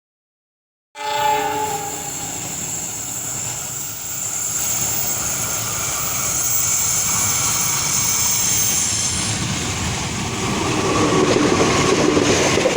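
A passenger train's horn sounds briefly about a second in, then the steady rumble of the approaching train, growing louder near the end as the wheels start clattering on the rails.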